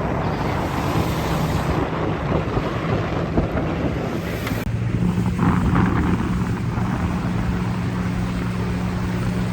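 Boat motor running with a steady low hum, under wind buffeting the microphone and rushing water. The sound breaks off for an instant about halfway, after which the motor hum stands out more clearly.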